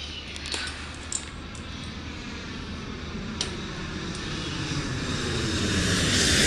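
Airplane engine noise growing steadily louder, as of a plane approaching, with a few light clicks early on.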